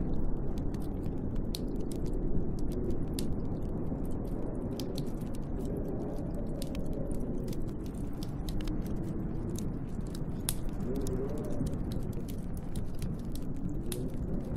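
Storm wind howling and moaning in slowly rising and falling tones, with a wood fire crackling in a fireplace, its small sharp pops coming several times a second.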